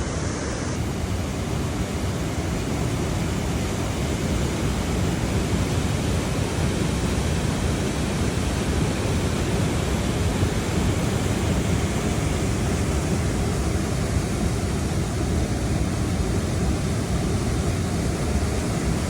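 Creek water rushing over a waterfall: a steady, loud rush.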